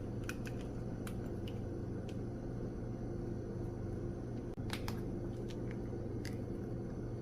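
Scattered small clicks and taps of plastic parts and a cable being handled and fitted, a GoPro camera with a 3D-printed cooling door going into its housing, over a steady low hum.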